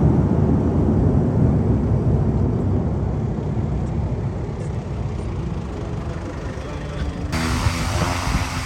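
Airliner engines rumbling low and slowly fading as the aircraft moves away. About seven seconds in, the sound cuts abruptly to a steady propeller-engine drone with an even hum.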